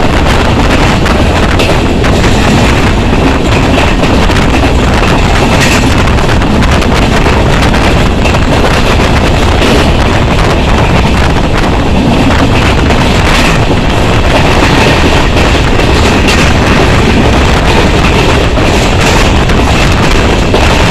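Loud, steady rush of wind buffeting the microphone from a passenger train coach running at speed, mixed with the rumble of the coach rolling on the rails.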